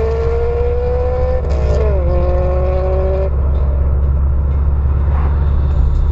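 A car accelerating, its engine note climbing steadily. It drops in pitch about two seconds in, like a gear change, holds steady, then falls away about three seconds in, leaving a steady low rumble.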